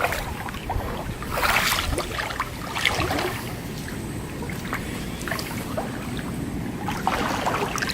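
Wind buffeting the microphone over shallow water at the shore, with a few faint sounds of water moving.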